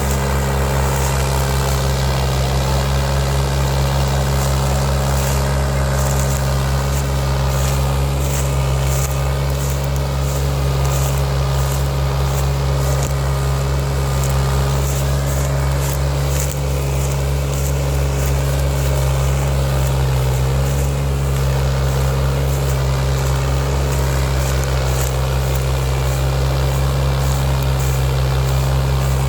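New Holland 3630 tractor's diesel engine running at a steady speed.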